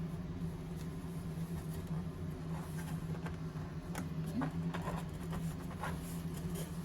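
A steady low machine hum, with scattered faint clicks and rustles over it.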